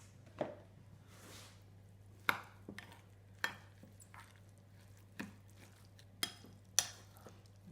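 Kitchen utensil knocking and scraping against a sieve and bowl as drained grated cucumber is tipped into yogurt and stirred: several sharp knocks spread unevenly through, with soft scraping between them.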